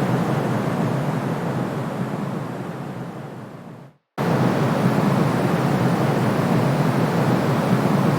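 Steady soothing white noise, deep and rushing with its weight in the low-middle range, fading out about four seconds in to a brief silence, then cutting straight back in at full level.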